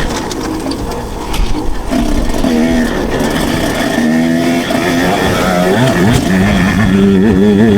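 Two-stroke motocross bike engine revving, its pitch rising and falling with the throttle and building toward the end.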